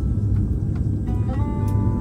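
Steady low rumble in the cabin of an Airbus A330-243 with its engines running at idle, under quiet cabin music whose notes change about a second in.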